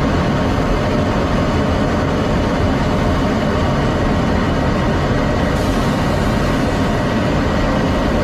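Loud, steady jet engine noise from an F-16 fighter, an even rushing sound heaviest in the low end that holds without change.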